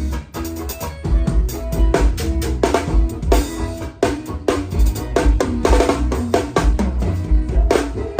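Drum kit played in a driving, steady beat, with bass drum and snare hits, over the band's other instruments playing pitched notes.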